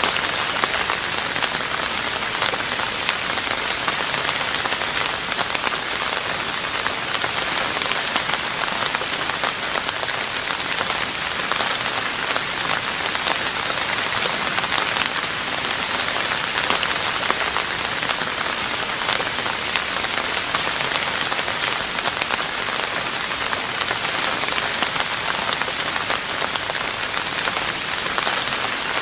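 Steady heavy rain falling on a roof, a dense even patter of drops.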